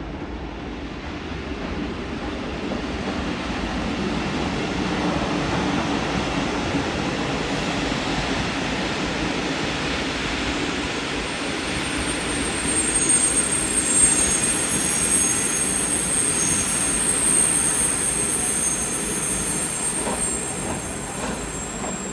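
A train rolling through at low speed, its rumble swelling, then about halfway through a high, thin wheel squeal of several tones sets in over it and holds to the end.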